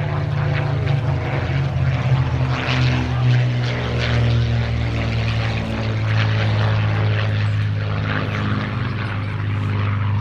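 Rolls-Royce Merlin V12 engines of Supermarine Spitfires running in a display flypast, a steady piston-engine drone whose pitch falls over the first few seconds as the aircraft pass, then holds level.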